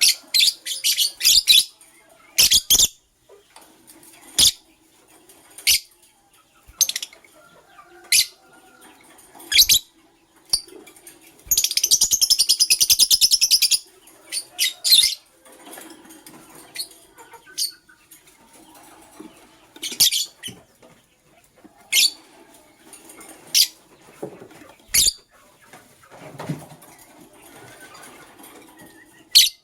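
Lovebirds chirping: short, sharp, high chirps every second or two, with a buzzy chattering trill lasting about two seconds near the middle.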